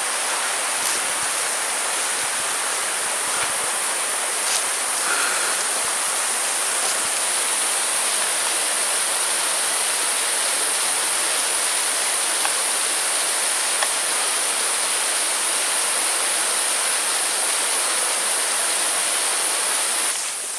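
Steady rush of water from a small waterfall and its stream, a constant even hiss with no break.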